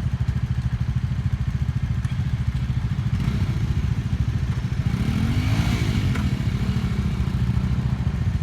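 Motorcycle engine running with a steady, even low pulse. Its note rises and falls briefly about five to six seconds in.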